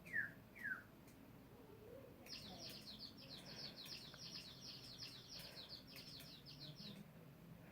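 Faint bird chirping: two single falling chirps near the start, then from about two seconds in a rapid run of short, high, falling chirps that stops about seven seconds in.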